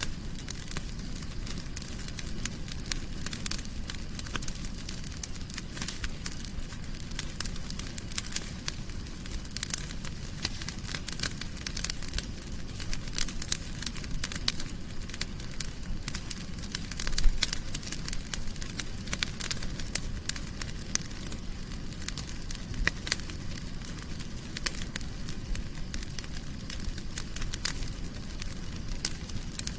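Wood fire burning in a fireplace, crackling with frequent irregular sharp pops over a steady low rumble of flame, with a brief louder flurry of pops about halfway through.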